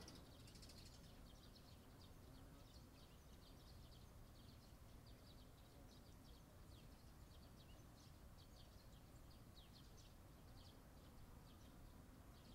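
Near silence: faint, quick high bird chirps come in clusters over a low steady background rumble.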